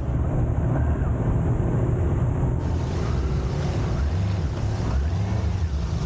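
A vehicle driving along, with a steady low engine and road rumble and wind noise on the microphone.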